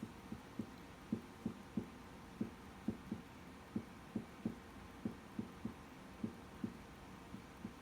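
Faint, soft, irregular clicking of a computer mouse, about two to three clicks a second.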